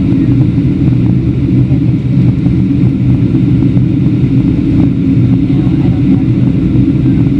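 Steady low rumble inside the cabin of a Boeing 737-700 in descent: its two CFM56-7B engines and the airflow drone without change.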